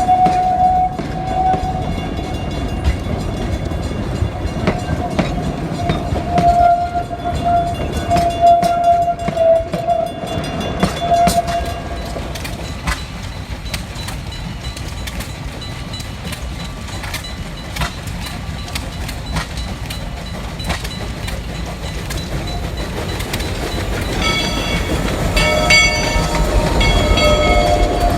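Georgetown Loop 2-6-2 No. 12 steam locomotive running with its train, rumbling and clattering over the rails. A single high steady tone is heard for several seconds early on, and near the end the whistle sounds in short blasts.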